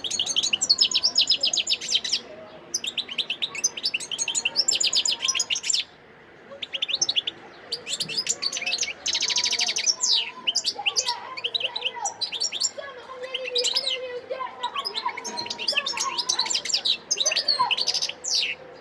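Wild-caught European goldfinch singing: long phrases of rapid twittering trills and chirps, with a short pause about six seconds in.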